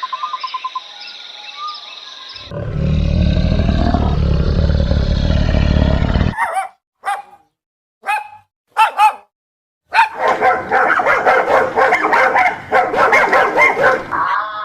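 Dog barking: a few short separate barks with silent gaps, then rapid, continuous barking over the last few seconds. Before the barks comes a loud, low, rough sound lasting about four seconds.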